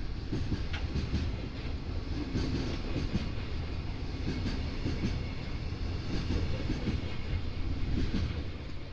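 Container wagons of a freight train rolling past close by: a steady low rumble with the clack of wheels over rail joints.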